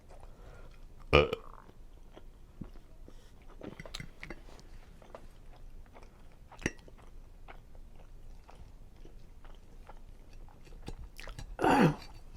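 Close-miked chewing of seafood linguine Alfredo, with many small wet mouth clicks and smacks and a sharper click about a second in. A short voiced sound falling in pitch comes near the end.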